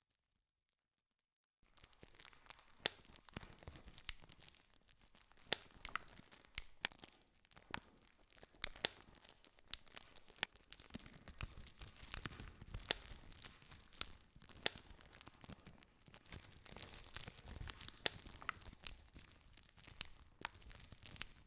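Campfire crackling: wood burning with a steady hiss and frequent sharp pops and snaps. It begins after about a second and a half of dead silence.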